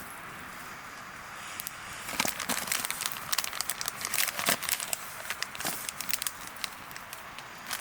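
Dry fallen leaves crunching and crackling in quick, irregular bursts, starting about two seconds in.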